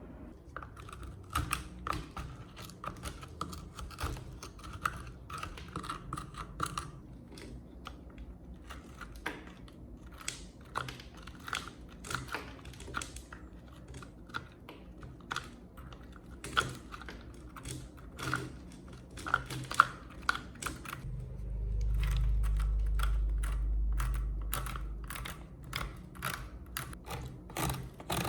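Irregular clicks and light knocks, as of tools and parts being handled, with a steady low rumble for about four seconds near the end.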